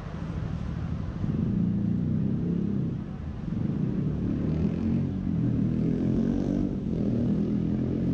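Traffic: a nearby motor vehicle's engine running, a low rumble that swells about a second in, eases briefly near three seconds, then rises again.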